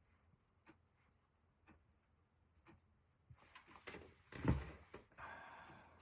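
Quiet handling of felt and craft materials: faint ticks about once a second, then rustling, with a knock about four and a half seconds in and a short scratchy stretch near the end.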